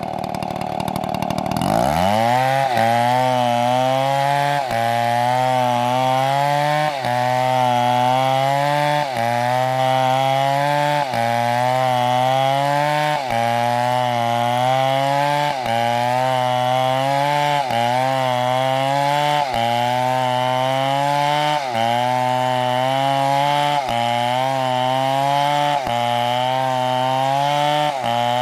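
Chainsaw cutting wood, its engine loaded in the cut. The pitch dips and recovers in a regular cycle about every two seconds, after falling and then climbing back to full revs about two seconds in.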